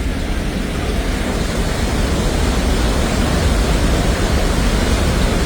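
Swollen mountain stream in flood, its floodwater rushing loudly in a steady noise that is heaviest at the low end.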